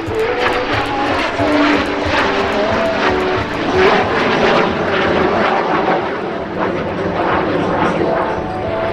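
An airplane's engine running loudly as it flies past, with a drone whose pitch shifts up and down.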